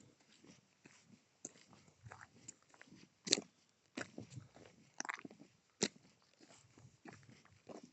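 A grazing cow tearing and chewing grass close by: irregular crunching snaps and rips. The loudest come just after three seconds in and again near six seconds.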